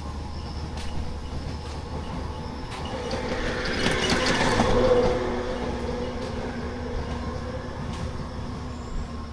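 A vehicle passing by, building up to its loudest about four to five seconds in and then fading away.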